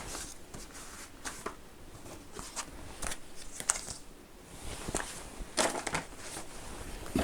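Packaging being handled: faint crinkling of paper and plastic with scattered light clicks and taps, a little busier about five seconds in.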